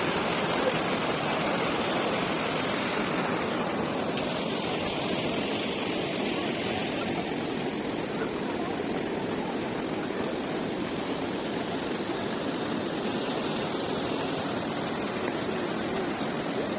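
Steady rush of flowing water from a spring-fed stream or small cascade.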